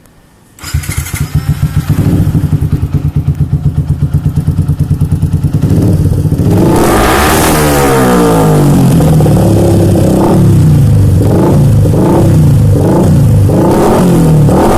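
Yamaha Jupiter MX 135 single-cylinder engine through an aftermarket Jonea exhaust: it starts up just under a second in and idles with a fast even beat, is revved once high and falls back, then is given a series of short throttle blips, about one a second.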